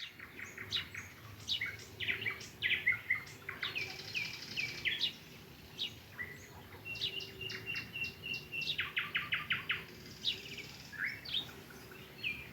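Nightingale singing: varied whistled phrases broken up by fast runs of repeated notes, one long rattling run a little past the middle.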